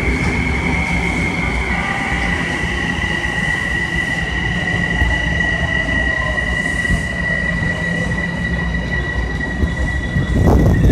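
Metro-North commuter train running close by on the track, a loud low rumble with a steady high-pitched whine or squeal from the wheels and running gear throughout.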